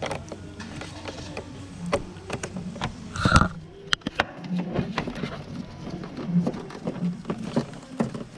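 Scattered clicks and light metallic knocks from hand tools at work in a car's engine bay, with one louder clank that rings briefly about three seconds in.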